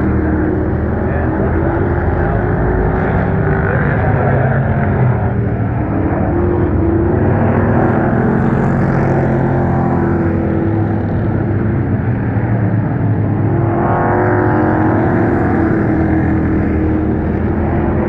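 A field of Pro Truck racing engines running at speed around a short oval, their pitches rising and falling as the trucks pass one after another.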